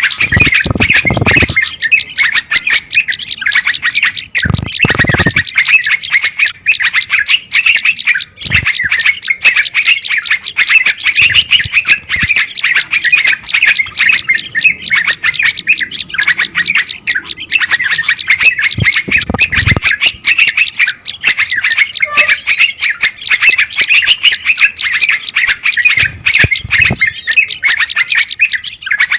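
Dense, loud chatter of many small songbirds chirping rapidly without pause: an agitated, noisy bird-lure call used to draw wild birds in. A few brief low thumps sound underneath.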